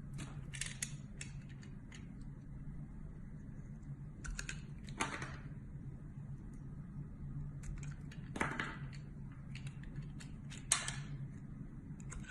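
A knife cutting through a bar of soap, giving crisp, crackly scraping cuts in four short bursts over a steady low hum.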